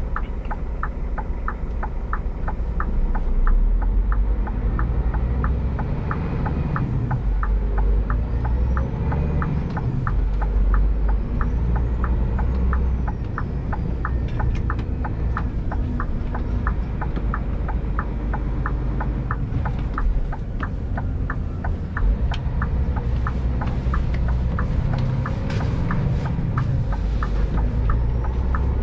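Scania G410 tractor unit's diesel engine running under way at low speed, a steady low rumble that swells and eases. Over it, a fast even ticking goes on at about three to four ticks a second.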